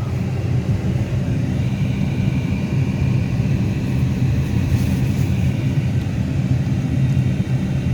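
Steady low rumble of a Subaru's engine and tyres, heard inside the cabin while driving on a snow-covered road.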